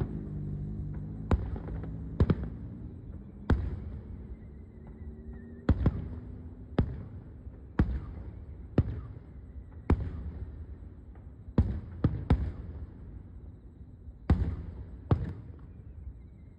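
Fireworks going off in a string of about fifteen sharp bangs at uneven intervals, each with a short rumbling tail.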